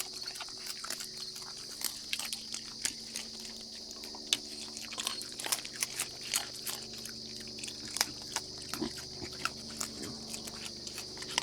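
Raccoons eating, with irregular crisp crunching and chewing clicks, over a steady high-pitched drone.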